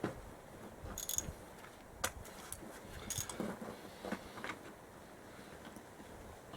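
Scattered metallic clinks and taps from hand tools and parts being handled while dismantling a quad bike. There are several in the first few seconds, some with a brief ringing tone, then it goes quieter near the end.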